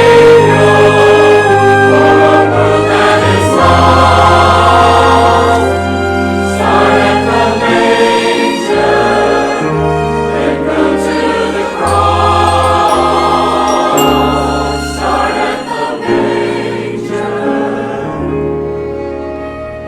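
Church choir singing with orchestral accompaniment, holding long notes over a moving bass line. The music grows softer over the last few seconds.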